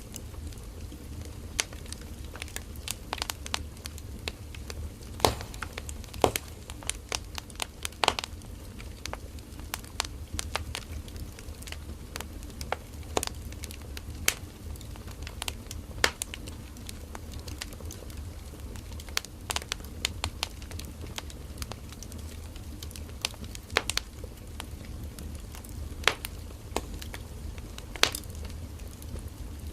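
Burning firewood crackling and popping at irregular intervals, with a few sharp loud pops, over a steady low rumble of the fire.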